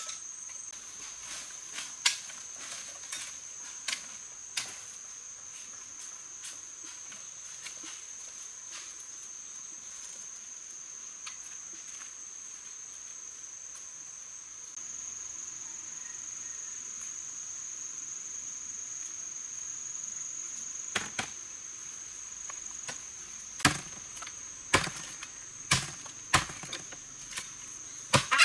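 Steady high-pitched chirring of insects, with a few sharp knocks in the first seconds and a run of louder sharp strikes about once a second near the end.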